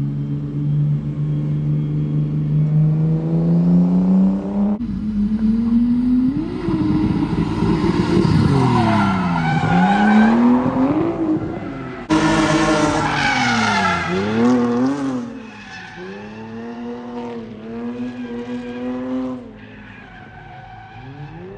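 Drift car engine accelerating hard with its pitch climbing steadily, then revs rising and falling repeatedly over the screech of the tyres sliding. Near the end it is quieter, with the revs still wavering up and down.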